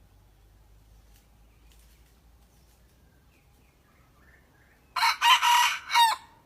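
Junglefowl rooster crowing once, about five seconds in, a loud call of a little over a second broken into a few parts. Faint bird calls can be heard before it.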